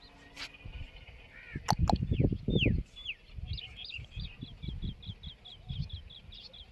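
Birds calling: a few short falling whistled notes, then a fast, even run of high chirps at about five a second. About two seconds in there is a loud burst of low rumbling noise.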